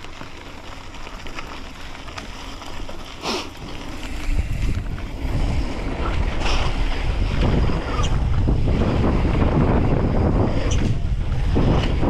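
Wind buffeting the microphone of a camera riding on a downhill mountain bike. The noise jumps up about four seconds in as speed builds, and a few sharp clicks and knocks from the bike cut through it.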